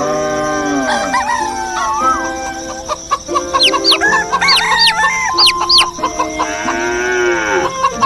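Roosters crowing and hens clucking, with small birds chirping in quick high notes between about three and six seconds in: a farmyard dawn chorus.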